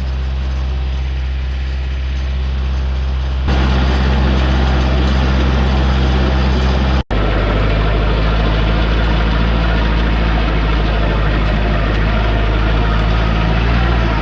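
Kioti DK40 diesel tractor engine running steadily. The sound changes abruptly about three and a half seconds in, and drops out for an instant just after seven seconds before the engine carries on at a slightly different pitch.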